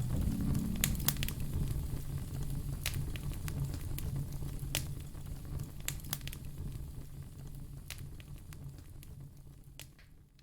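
Wood fire crackling in a fireplace, with scattered sharp pops over a steady low rumble. It fades out gradually toward the end.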